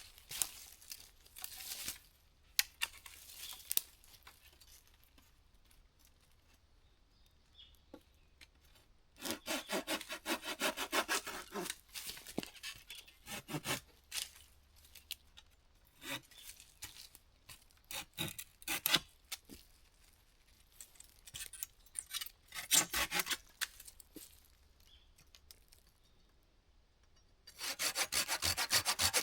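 Wood being sawn by hand in bursts of rapid back-and-forth strokes, with pauses between them; the longest burst is about ten seconds in and another starts near the end.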